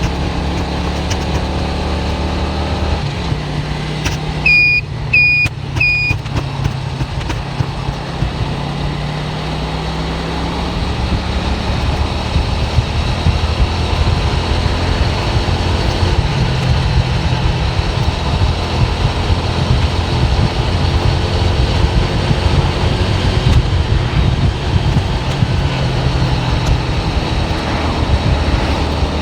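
Car engine and road noise heard from inside a moving car, the engine hum shifting in pitch as speed changes. About five seconds in come three short, high electronic beeps.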